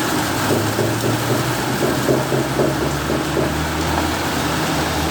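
Heavy rain pouring down in a thunderstorm, with a motor vehicle's engine running steadily underneath.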